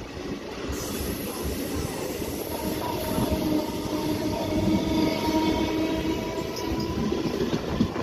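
Santipur local electric multiple-unit train pulling out, its coaches rolling past close by. The wheels rumble over the rails under a steady whine, with a sharp clack near the end.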